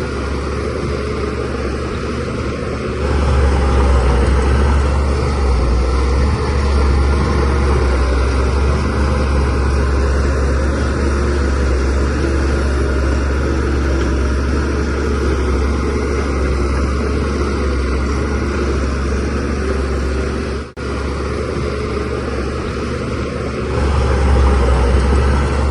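Diesel engine of a DH17C3PRO bulldozer running steadily with a deep hum. It grows louder about three seconds in and again near the end, and briefly drops out about three-quarters of the way through.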